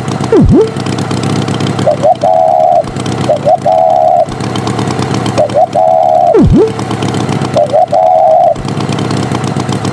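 Cartoon sound effects: an engine runs steadily while short horn-like toots repeat about every second and a half, and quick swooping effects drop and rise in pitch.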